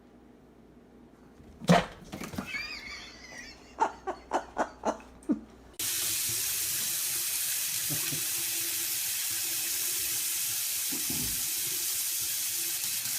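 Water running steadily, as from a tap, starting suddenly about six seconds in. Before it comes a thump, then some faint squeaks and a quick run of about six sharp taps.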